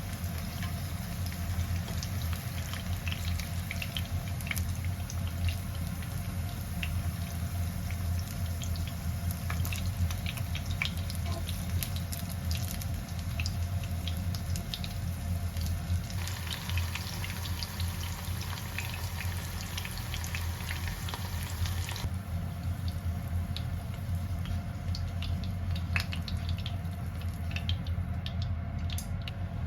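Kitchen cooking sounds: water running and dripping, with scattered light clinks and ticks over a steady low hum. The background changes abruptly about 16 and 22 seconds in.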